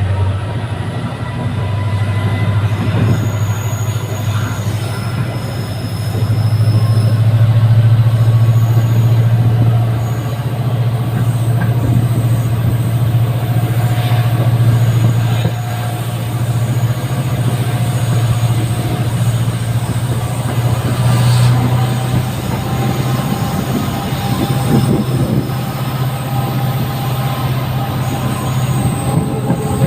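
A WDP-4D diesel locomotive's 16-cylinder two-stroke EMD engine hums steadily under power as the train runs, swelling louder a few times. Over it come the rattle of the coaches and thin, high wheel squeals that come and go.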